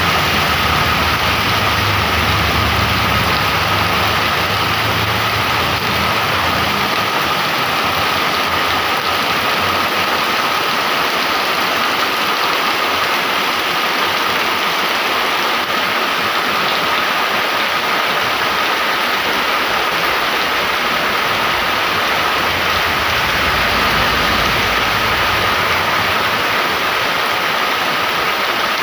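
Heavy rain falling steadily. A low engine rumble from a passing vehicle is heard in the first few seconds and again briefly a few seconds before the end, and a faint steady high tone runs beneath the rain.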